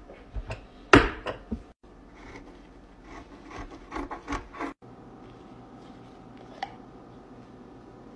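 Hands pressing and tapping a disposable surgical mask on a stone countertop, then a quick run of scissor snips and scrapes as the mask is cut open. Quieter after about five seconds.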